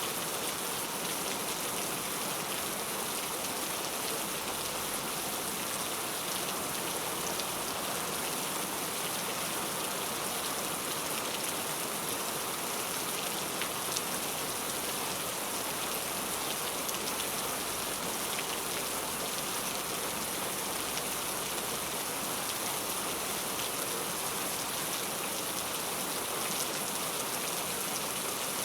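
Heavy rain falling steadily, a dense even hiss with the patter of many individual drops striking a surface.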